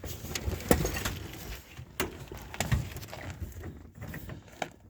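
Irregular clinks, knocks and rustling of hands handling metal parts, a few sharp knocks standing out, while the new steering column and shaft are fitted.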